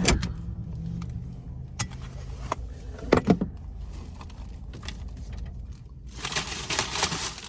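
Car engine idling with a low hum, under a few clicks and knocks, the loudest about three seconds in. Near the end, a paper takeout bag rustles for about a second.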